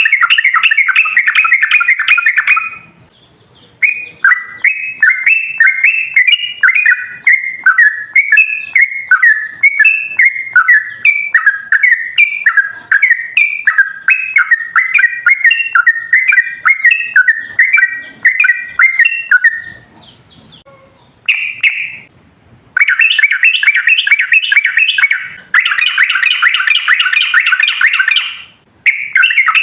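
Yellow-vented bulbul (trucukan) singing loudly: fast, bubbly chattering runs of notes in long phrases, broken by a couple of brief pauses. A short burst and a denser, louder chatter come near the end.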